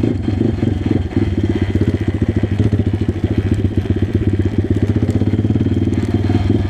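Single-cylinder pit bike engine running at low revs with a fast, even putter; the engine note drops at the start as the throttle comes off.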